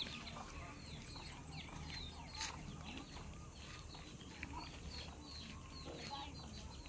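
Birds chirping faintly: many short, high chirps in quick succession, with one sharp click about two and a half seconds in.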